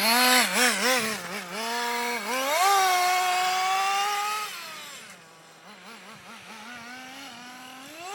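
Small nitro two-stroke engine of a radio-controlled car revving in quick blips, then holding a higher, steady pitch for about two seconds. It drops back to a quieter low idle with a few small blips about four and a half seconds in, and revs up again near the end.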